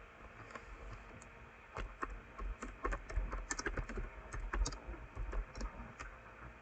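Typing on a computer keyboard: irregular runs of keystrokes, busiest in the middle and thinning out near the end.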